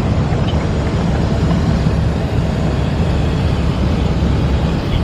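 Steady, loud rumble of a vehicle on the move: engine and road noise with no distinct events.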